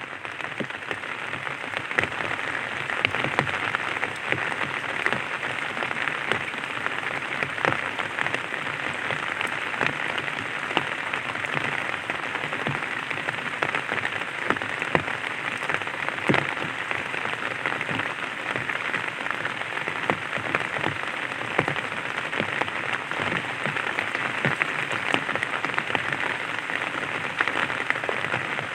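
Light rain falling on an umbrella: a steady patter of many small drop impacts.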